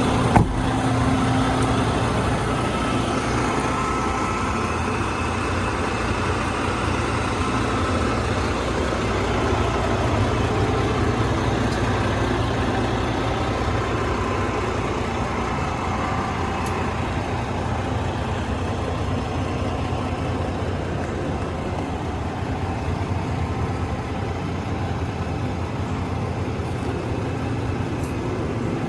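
Heavy truck diesel engine idling steadily, with a single sharp click about half a second in.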